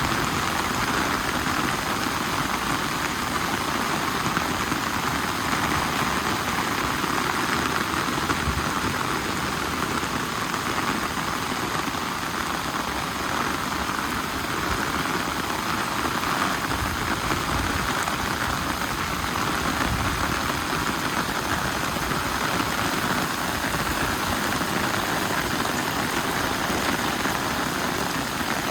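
Steady rain falling, an even, unbroken hiss of drops that holds at one level throughout.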